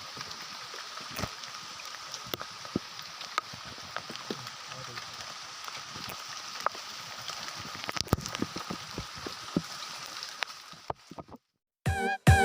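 Heavy rain falling steadily, with many sharp drop ticks close by. It cuts out about eleven seconds in, and music starts just before the end.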